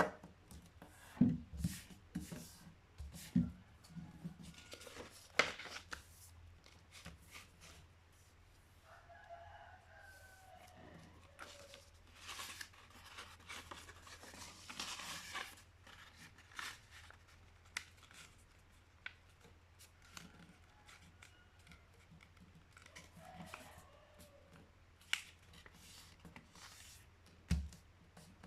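A sheet of printer paper being folded and creased by hand, with rustling, crackling and sharp creasing strokes, and a few dull knocks on the table near the start and near the end.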